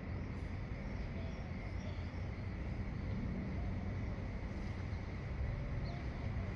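Faint scattered bird chirps at dawn over a steady low rumble and a thin, steady high tone.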